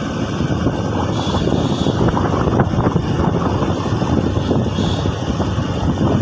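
Steady rush of wind and road noise on a moving motorcycle, buffeting the microphone.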